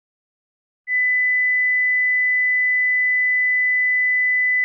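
A single steady, high-pitched electronic beep tone, a pure sine tone, starts abruptly about a second in and holds at one pitch and level.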